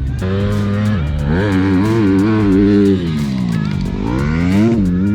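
Motocross dirt bike engine revving: its pitch rises and falls, sags for over a second, then climbs sharply again as the throttle is opened near the end. Background music with a steady beat plays under it.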